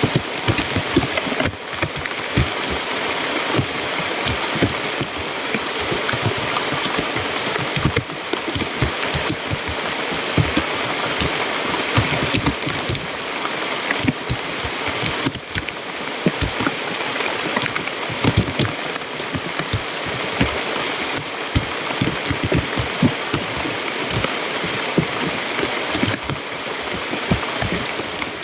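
Heavy rain falling, a dense, steady rush of drops with many small irregular ticks as they strike a nearby surface.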